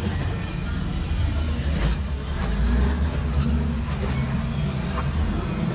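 Off-road vehicle's engine running steadily, with a few faint ticks and knocks over it.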